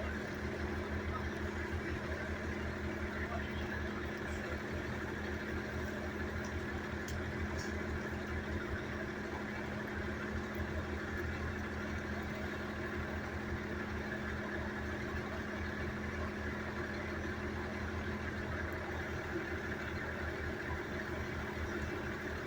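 A vehicle engine idling steadily, a constant low hum with an even throb.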